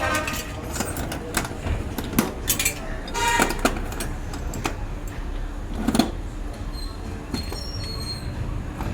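Workshop clatter: irregular knocks and clinks of hard parts being handled, over a steady low rumble.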